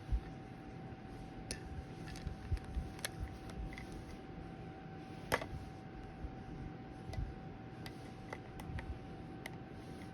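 Scattered light clicks and taps, irregularly spaced, with one sharper click about five seconds in, over a steady faint hum and low room rumble.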